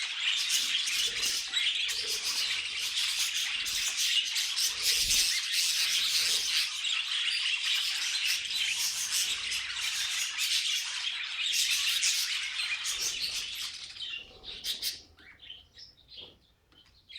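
Budgerigars chattering and warbling in a dense, rapid jumble of high chirps and squawks. About three-quarters of the way through, the chatter thins out to a few scattered chirps.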